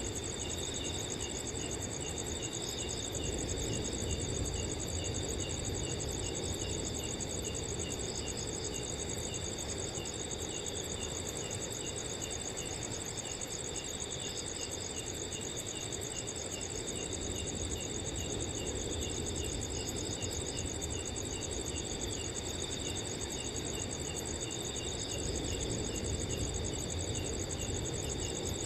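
Several crickets trilling steadily in high overlapping tones, with one chirping at about two chirps a second. Underneath, a soft low rush of wind swells slightly a few seconds in and again near the end.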